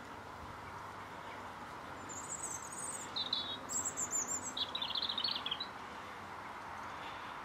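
Songbirds calling: a few short, very high chirps between about two and four seconds in, then a quick trilling phrase lasting about a second, over steady outdoor background noise.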